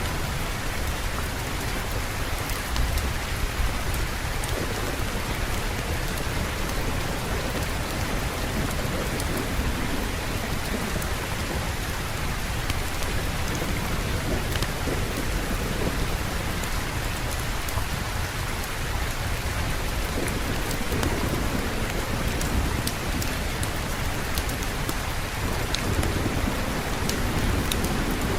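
Steady heavy rain with low rumbles of thunder that swell and fade a few times.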